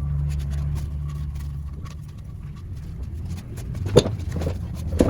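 A steady low mechanical hum fades away after about two and a half seconds. Then come two sharp knocks about a second apart near the end.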